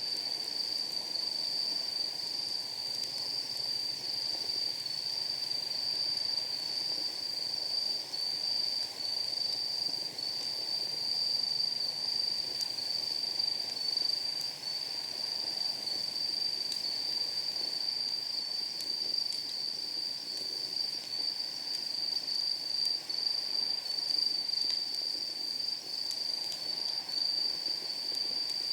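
Steady high-pitched trilling of night insects with a slight pulse, loudest of all. Beneath it a wood fire burns, with occasional faint crackles and pops.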